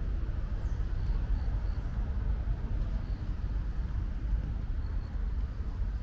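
Outdoor ambience in light rain: a steady low rumble of distant traffic under a soft hiss of rain. A few faint, short, high peeps are heard, three in quick succession about a second in and one more near five seconds.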